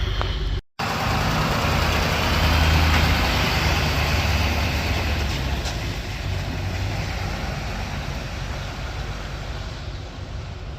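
Truck engine running steadily. It cuts out briefly just under a second in, then comes back, is loudest a couple of seconds later and slowly fades.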